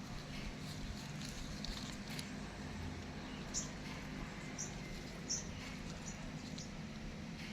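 Baby monkey giving short, high-pitched squeaks, about three in quick succession around the middle, over a steady low hum.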